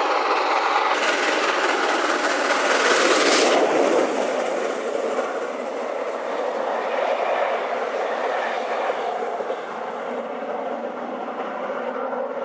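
A train running along the rails: a steady noise of wheels on track, loudest about three to four seconds in and easing a little just after.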